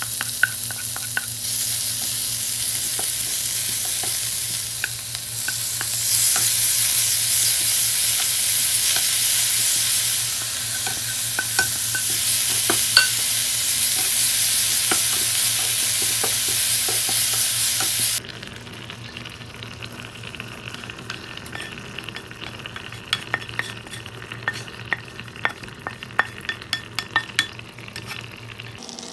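Diced carrot, then cod and broccoli, sizzling in hot oil in a nonstick frying pan while a wooden spatula stirs, the sizzle getting louder about six seconds in. The sizzling stops abruptly about two-thirds of the way through, leaving quieter scraping and tapping of the wooden spatula on the pan as the mixture is scraped out, over a steady low hum.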